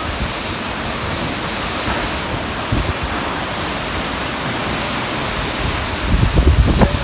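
Summer storm: a steady rush of heavy rain and wind. From about six seconds in, wind buffets the microphone with low rumbling gusts.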